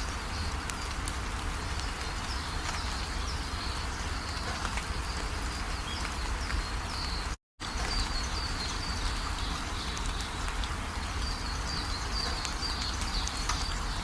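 Steady rainfall with a low rumble, and a run of short high chirps over it. The sound cuts out for a split second about halfway, then the rain carries on.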